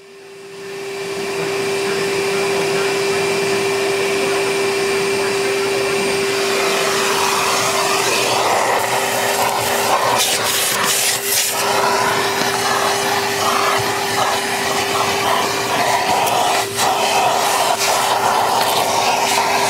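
Metro Vac Vac N' Blo portable vacuum-blower motor switching on and spinning up over a couple of seconds, then running steadily with a rushing airflow and a high motor whine. About halfway through, the rush becomes uneven, with a few brief breaks as the airflow changes.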